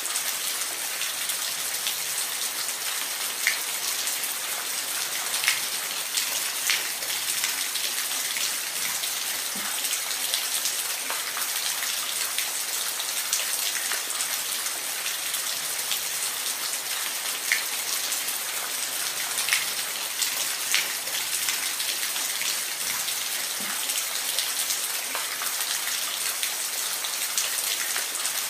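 Steady rain: a dense, even hiss with scattered louder individual drops striking a surface.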